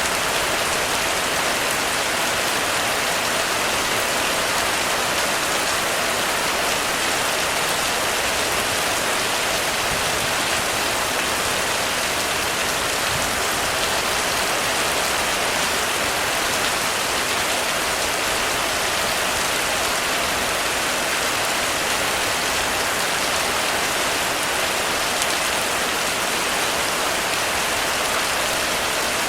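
Heavy rain falling steadily on a roof: a dense, even hiss with no breaks or thunder.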